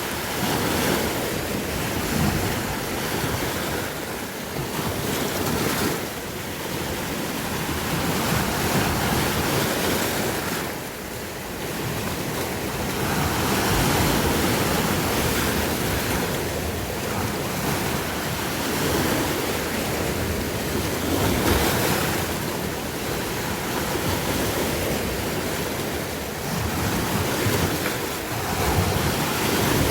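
Sea waves breaking and washing on the shore, a continuous surf that swells and eases every few seconds, with wind buffeting the microphone.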